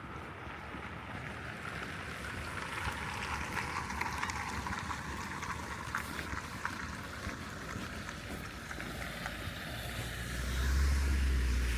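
Traffic on a snow-covered road: tyre hiss on slush swelling and easing, then a vehicle's low rumble growing louder about ten seconds in.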